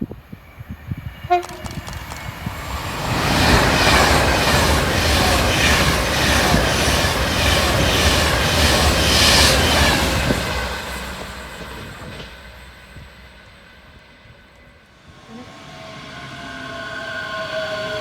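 A train passes at speed with a loud rush of wheels on rail and a rhythmic clatter for about eight seconds, then fades away. A short horn note sounds about a second in. Near the end, a train's steady high whine comes in.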